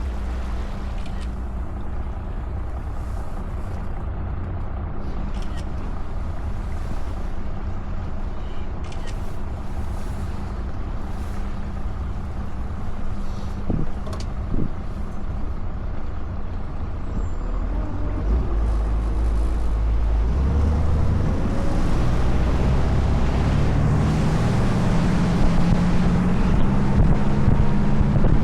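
Tour boat's engine running steadily at low speed, then opening up about two-thirds of the way through, its pitch rising and getting louder as the boat speeds up, with wind and water noise.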